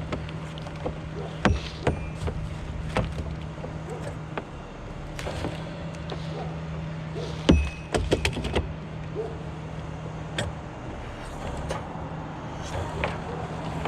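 Bucket truck engine running steadily, with scattered sharp clicks and knocks from a ratchet strap being worked around the trunk, including a quick run of clicks about eight seconds in.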